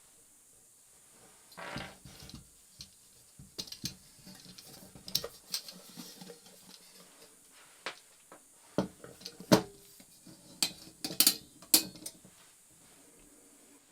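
Irregular clicks, knocks and clinks of small hard objects being handled, such as cookware or containers being set out. The loudest clack comes a little past the middle, and a quick run of clacks follows.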